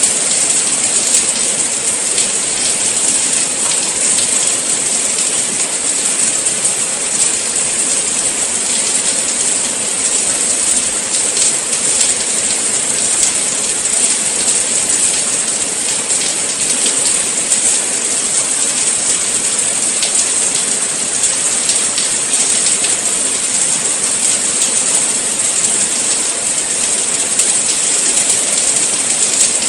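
Steady rain falling, an even hiss dense with fine drop ticks that holds the same level throughout.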